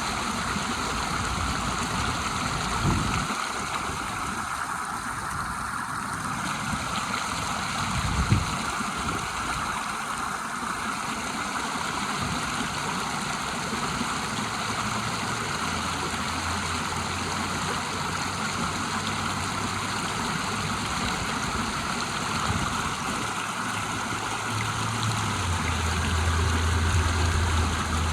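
River water rushing steadily over a small waterfall, an even hiss of flowing water. There are two brief low thumps, about three and eight seconds in, and a low rumble that comes in past the middle and grows near the end.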